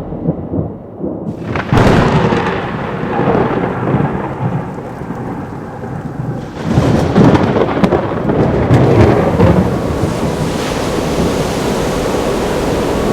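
Thunderstorm: heavy rain with rumbling thunder, a loud roll starting suddenly about two seconds in and another about seven seconds in, settling into steady rain near the end.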